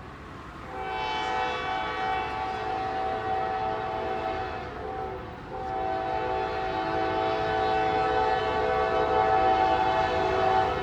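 Diesel locomotive air horn sounding a chord of several notes: one long blast, a short break about five seconds in, then a second long blast that runs on.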